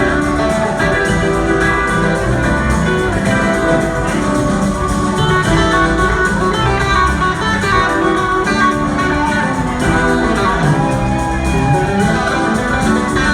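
Live rock band playing, with electric guitar prominent over the drums and bass.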